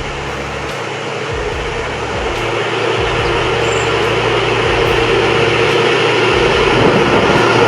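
A heavy vehicle or machine running steadily, growing gradually louder.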